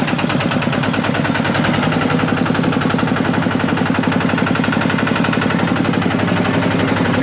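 E-Tak Thai farm tractor's single-cylinder diesel engine running under way, a loud, steady, rapid chugging with each firing stroke heard as a separate knock.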